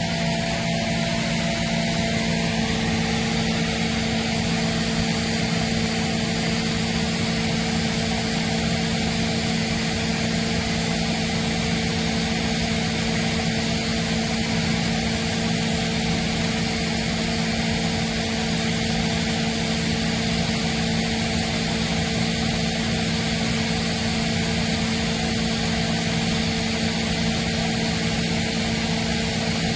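Atlas Copco GA90 oil-injected electric rotary screw air compressor running steadily: a loud even rush of noise over a low hum, with a higher tone that drops to a lower one about two seconds in.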